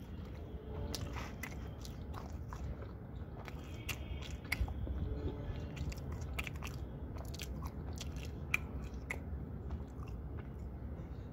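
Close-up chewing of a mouthful of chicken kebab rumali roll, with frequent irregular wet clicks and lip-smacks of someone eating with relish.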